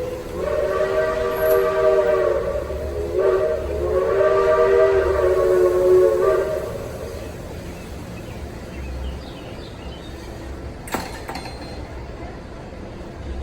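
Steam locomotive's chime whistle blowing two long blasts, a brief break between them, each a steady chord of several notes. Two long blasts is the railroad signal for a train about to move off.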